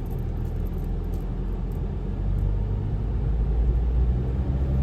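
Car driving on the road: a steady low engine and road rumble that grows louder near the end, as the engine pulls harder.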